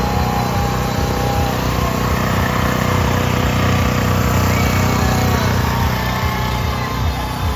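Car engine and road noise heard from inside the cabin of a moving car, a steady low hum.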